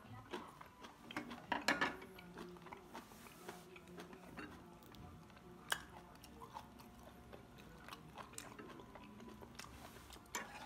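Quiet chewing at the table, with a few light clicks of chopsticks on the dishes and one sharper click about halfway through.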